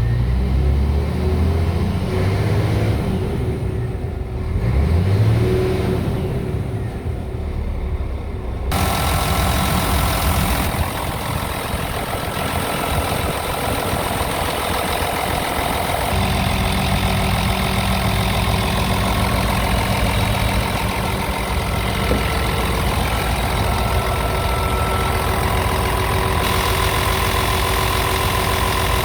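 Scania R tractor unit's diesel engine running at idle, with a short rise in revs about four seconds in. The tone of the engine changes abruptly about nine and sixteen seconds in, where the recording cuts.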